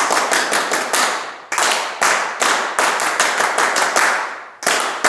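People clapping in unison in the paó, the ritual hand-clapping salute to Exu: sets of sharp claps, a quick run at first, then a slower even run, with brief pauses between the sets.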